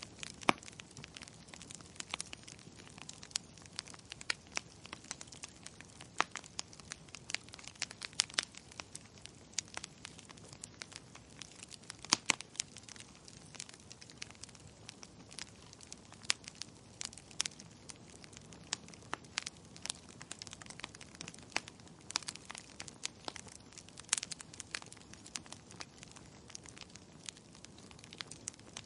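Wood fire crackling: irregular sharp pops and snaps of burning firewood over a soft hiss, with a few louder pops.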